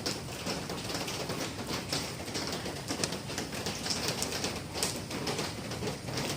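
Steady rain falling, with a dense patter of drops on nearby surfaces.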